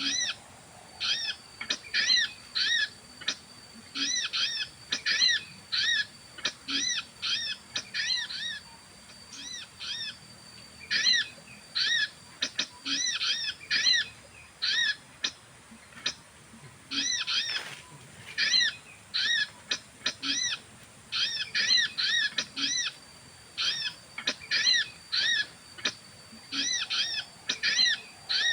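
Sogon bird calling over and over: short rising-and-falling chirps in quick runs of three to six, with brief gaps between runs. A faint thin steady whistle comes and goes behind them. The calls serve as the lure for trapping sogon.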